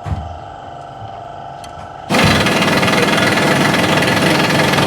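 A loud power tool with a rapid hammering rattle starts abruptly about two seconds in and runs steadily. Before it there is a quieter steady hum.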